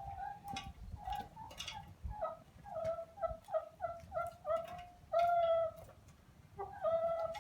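Domestic hens clucking: a quick run of short clucks, then a longer drawn-out call about five seconds in and another near the end, with a few sharp clicks in the first two seconds.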